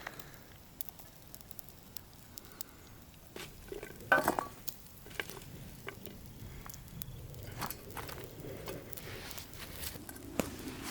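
Food cooking over a campfire: a faint sizzle with scattered crackles and clicks, and a short loud clatter about four seconds in.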